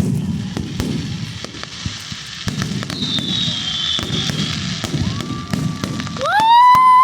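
Fireworks going off in many sharp bangs and crackles over a low crowd murmur, with a brief high whistle about three seconds in. Near the end a loud steady horn-like tone comes in, rising in pitch, holding, and falling away.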